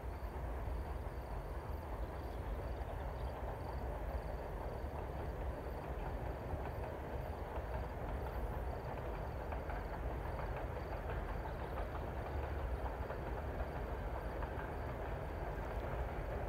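Train running on the track, a steady noise of wheels on rails that holds at the same level throughout.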